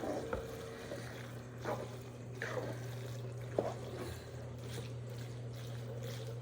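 Wet, sticky sounds of a spoon stirring macaroni through a thick, creamy cheese sauce in a pot, with a few scattered clicks of utensil on pot, over a steady low hum.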